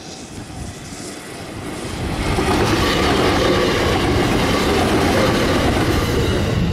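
JR West 521 series electric train passing close by at speed. Its rushing noise builds over the first two seconds, then stays loud and steady as the cars go by.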